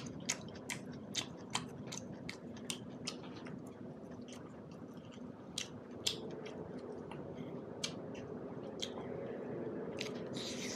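Close-up chewing of buffalo meat curry and dhido eaten by hand, with irregular sharp mouth clicks and smacks about once a second. There is a short hiss near the end.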